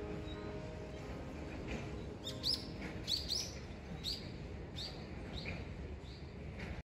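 Small songbird chirping, a string of short high chirps repeating every half second to a second from about two seconds in, over a steady outdoor background hum. The sound stops abruptly near the end.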